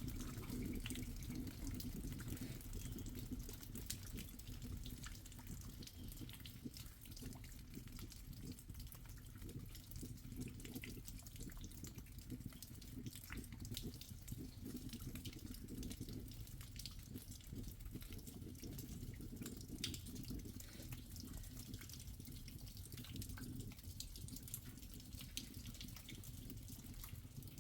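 Faint water trickling, with scattered drips.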